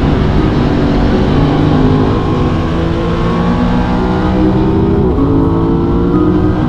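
Aprilia RS 660 parallel-twin motorcycle engine pulling under way, its pitch climbing steadily, dipping briefly about five seconds in, then climbing again, with wind rush on the microphone.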